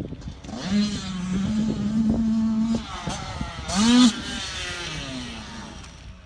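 Dirt bike engine running at a steady pitch, then a sharp rev about four seconds in, the loudest moment, before it fades away.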